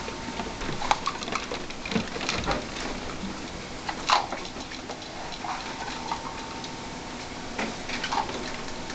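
Pet rats moving about, an irregular patter of small clicks, scratches and rustles with a few sharper knocks.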